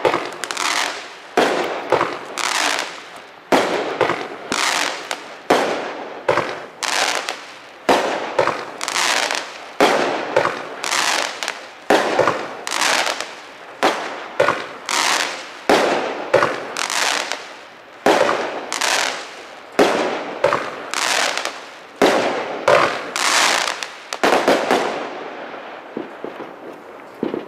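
Fireworks Over America 'Heat Lightning' multi-shot aerial fireworks cake firing shot after shot, about one a second. Each shot is a sharp bang followed by a fading crackle from silver chrysanthemum breaks. The shots stop near the end and a last crackle dies away.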